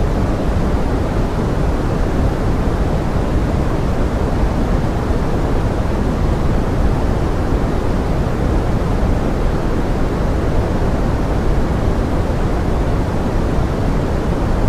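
Steady pink noise blended with forest rain: an even, deep rushing hiss that does not change.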